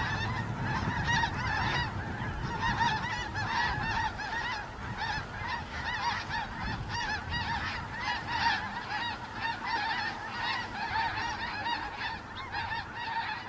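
A large flock of geese honking, with many short calls overlapping continuously.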